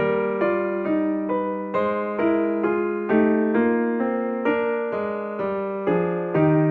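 Background music: electric piano or keyboard playing a slow melody of single notes, a new note roughly every half second, over a held low tone.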